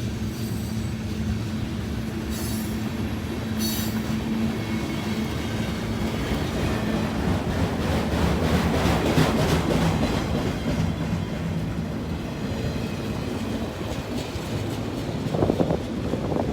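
CN freight train passing: a steady engine drone with steel wheels clattering over the rails, loudest about eight to ten seconds in. A brief louder sound comes near the end.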